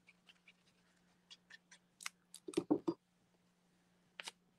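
Scattered light clicks and taps of a paper banner being handled and glued down onto a card, with a quick cluster of taps about two and a half seconds in and another pair near the end.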